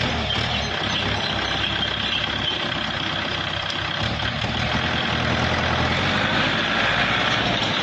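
Kubota L4708 DT tractor's diesel engine running steadily at idle.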